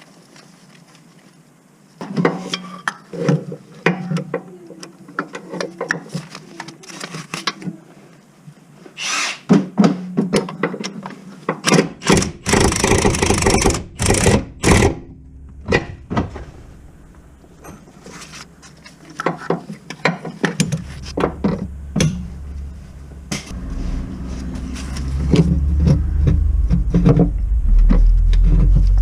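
Irregular knocks, clicks and clatter of metal tools and parts being handled, loudest in a quick cluster about halfway through, with a low rumble building up over the last few seconds.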